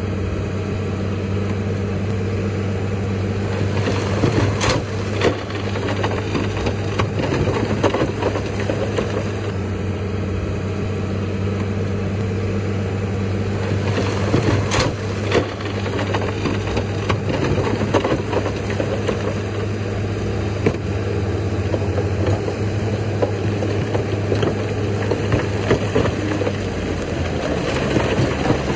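Heavy diesel earthmoving machinery engine running steadily, with a constant crackling rattle over its drone and two sharp knocks about ten seconds apart.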